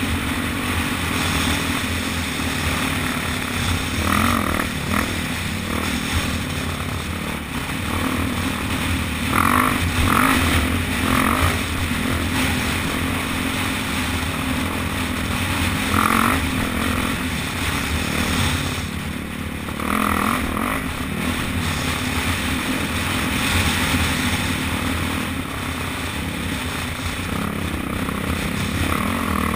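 Dirt bike engine running under way, its revs rising briefly several times as the throttle is opened.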